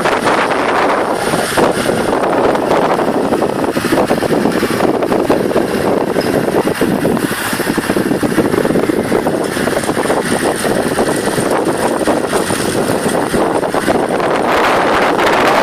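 Wind rushing over the microphone on a moving motorbike, a loud, steady rush with the motorbike's running and road noise underneath.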